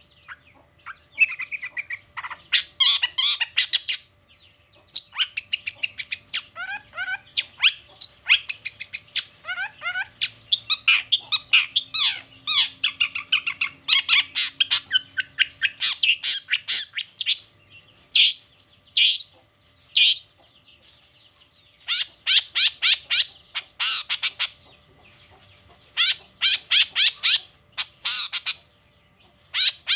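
Long-tailed shrike (cendet) singing a fast, varied chattering song: runs of rapid short notes, some gliding, in bursts broken by brief pauses.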